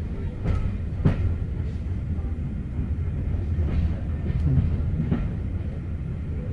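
Heritage railway train running on the track: a steady low rumble with a few sharp knocks from the wheels and carriages.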